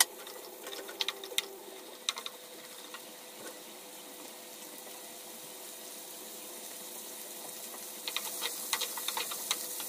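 Bell pepper strips sizzling in hot oil in a frying pan, with scattered crackles and clicks as they are stirred with a wooden spoon, more of them about a second in and near the end.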